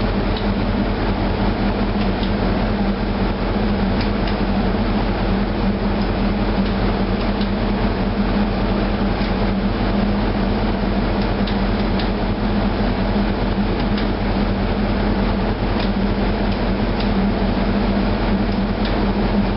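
MaK 8M32 medium-speed marine diesel, an eight-cylinder inline engine, running steadily as a loud, even engine-room drone with a steady low hum and a few faint ticks. It is running with the shaft generator connected but not yet taking load.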